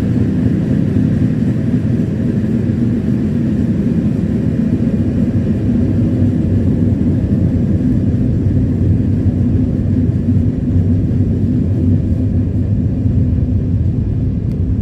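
Passenger train running at speed: a steady, loud, low rumble that does not change.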